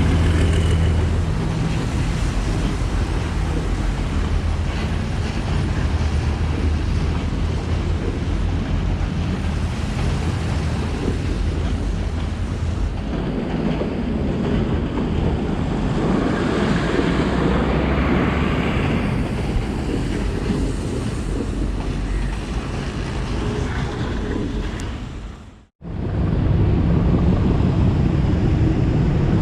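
Diesel train running, with a steady rushing hiss throughout; a low engine hum at the start fades after about a second. The sound cuts out abruptly for a moment near the end, then resumes.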